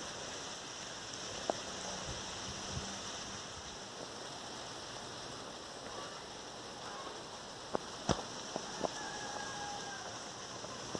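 Light rain falling, a steady soft hiss, with a few sharp ticks of drops striking close by, several of them together about eight seconds in.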